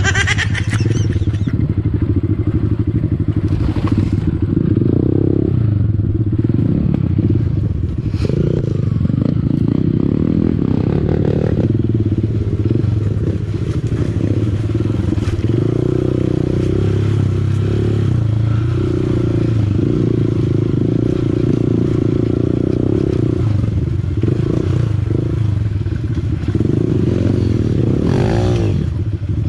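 Honda CRF150L's single-cylinder four-stroke engine running as the bike is ridden along a dirt enduro trail, revs rising and falling, with occasional knocks from the bike over rough ground.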